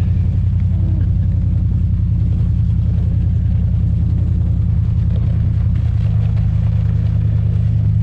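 Pickup truck engine running steadily while towing sleds, a constant low drone.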